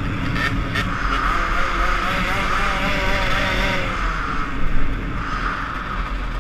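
Small 50 cc two-stroke motorcycle engines running at road speed, with rushing wind noise over a helmet-mounted camera. The engine pitch falls off about halfway through, and two short clicks come about half a second in.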